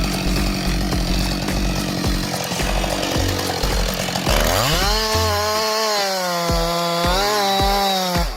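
Chainsaw cutting into a tree trunk. About halfway through, the saw's engine revs up to a high, steady pitch with slight wavering, and it holds there to the end.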